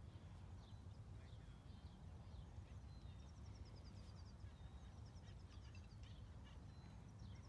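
Near silence outdoors: faint small birds chirping and trilling in quick runs of notes, over a steady low rumble.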